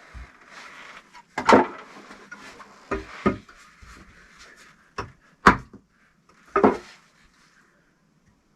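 Bricks being handled and set in place for a stove: about six sharp knocks, with scraping between them, stopping a little over two-thirds of the way through.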